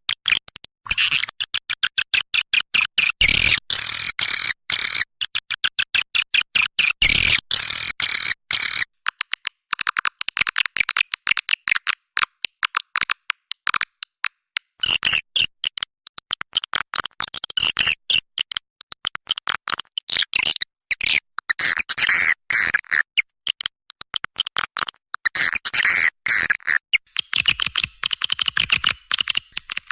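Recorded swiftlet calls played back as a lure: dense, rapid high-pitched chirping and clicking twitter with brief pauses, thin and without any low end.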